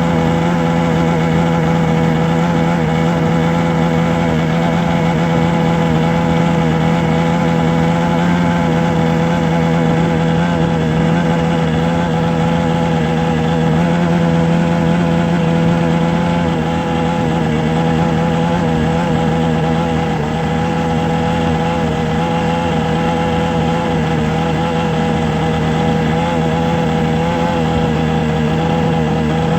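A motor running at a steady speed, giving a constant hum with a strong low pitch and many overtones.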